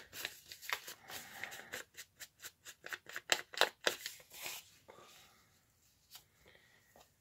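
Quick run of short crisp clicks and scrapes from hand crafting on paper, about four or five a second for a couple of seconds, then fading to faint rustling.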